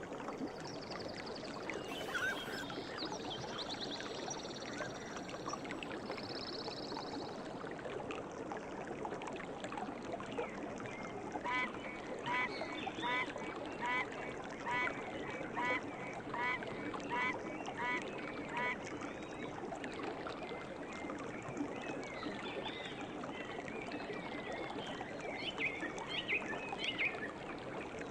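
Steady rush of flowing river water with birds calling over it: high, thin calls near the start, a run of about ten evenly spaced calls in the middle, and more chirping near the end.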